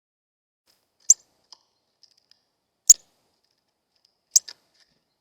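Northern cardinal at a feeder cracking seeds in its beak: three sharp clicks about a second and a half apart, with fainter ticks between.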